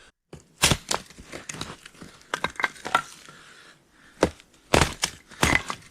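Irregular crunches and sharp cracks, a dozen or so spread unevenly, some louder than others, like brittle wood snapping and being crushed.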